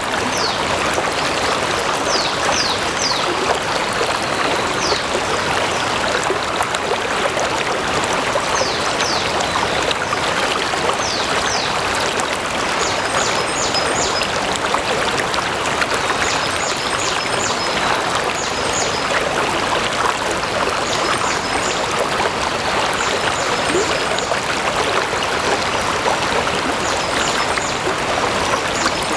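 Stream water flowing steadily with a dense, even rush. Short high chirps sound over it: quick falling ones in the first half, then small clusters of high notes repeating every couple of seconds from about halfway on.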